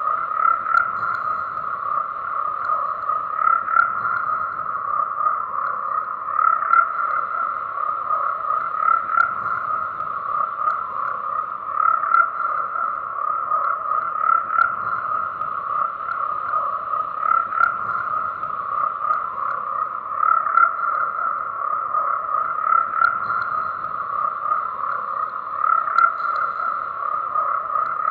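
Chorus of many frogs calling continuously, their croaks overlapping into a dense, steady mass of sound.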